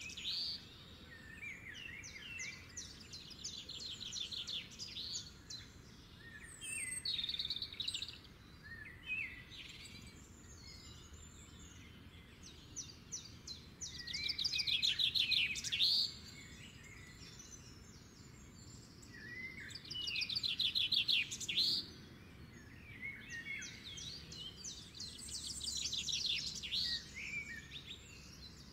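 Songbirds singing: short, rapid trilled phrases that recur every few seconds, over faint steady outdoor background noise.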